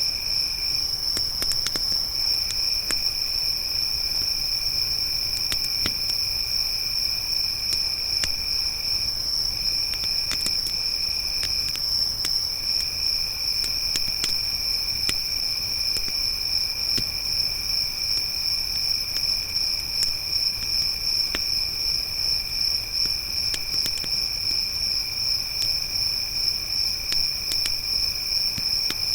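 Crickets trilling steadily: one high, loud chorus and a second, lower trill that breaks off briefly a few times. Scattered small crackles and pops of a campfire sound over them.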